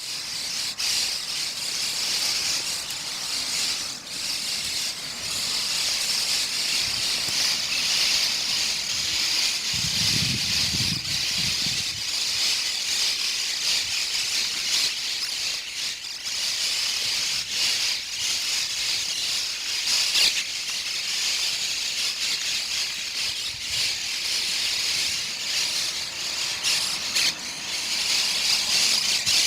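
A large flock of birds calling and chattering all together in a dense, unbroken din. A short low rumble comes in about ten seconds in.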